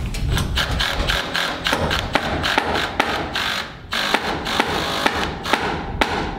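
Hammer driving nails into wood framing: repeated sharp strikes at an uneven pace.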